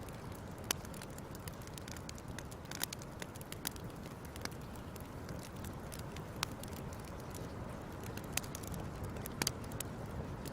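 Wood fire crackling: a steady low rumble of burning with irregular sharp pops and snaps, a few louder ones scattered through.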